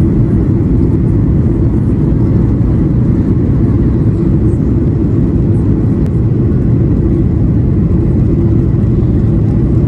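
Steady deep rumble of engines and airflow heard inside the cabin of a Boeing 737-800 airliner.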